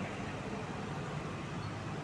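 Truck engine running steadily, with road and traffic noise.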